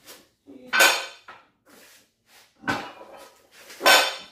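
Iron weight plates clanking against each other and the barbell as the load on the bar is evened up: three loud metallic clanks with a ringing tail, about a second or more apart, with lighter knocks between them.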